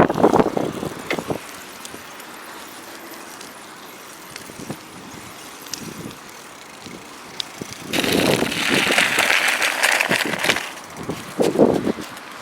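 Strong wind buffeting the microphone during a bicycle ride on snow, dropping away after a second or so and gusting again into a loud hiss about eight seconds in.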